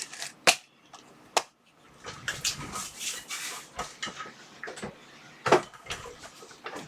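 Packet of spare blades being handled and opened on a workbench: a few sharp clicks and knocks of small hard parts, the loudest about half a second in and again about five and a half seconds in, with packaging rustling in between.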